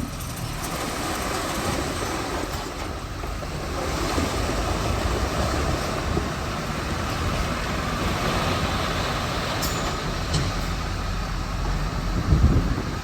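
Komatsu D41P bulldozer's diesel engine running steadily under load as it pushes rock, with a brief louder surge near the end.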